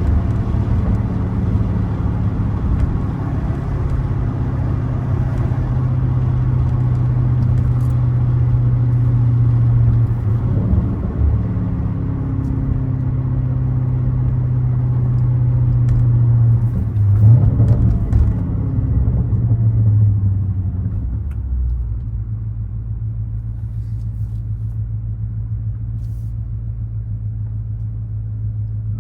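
2013 BMW 550i's twin-turbo 4.4 V8 running on the road through an H-pipe, catless downpipes and a muffler-deleted exhaust: a steady deep drone. The note swells and changes pitch twice, about ten seconds in and again about seventeen seconds in. It then settles lower and quieter for the last several seconds.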